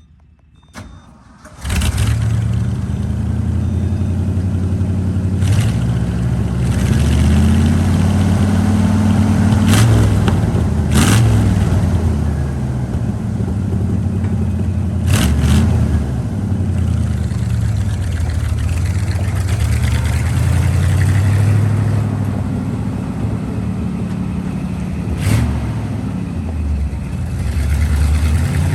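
1977 Ford grain truck's engine starting up under two seconds in, then running, its speed rising and falling several times. A few sharp knocks sound over the running engine.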